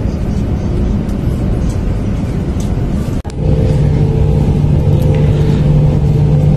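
Rumble of a high-speed train heard from inside the carriage as it runs into the station. About three seconds in the sound breaks off sharply and resumes with a steady low hum over the rumble.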